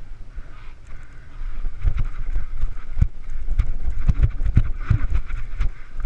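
Mountain bike ridden over a rough dirt trail: irregular thumps and rattles as it hits bumps, over a steady rush of tyre noise and wind on the microphone.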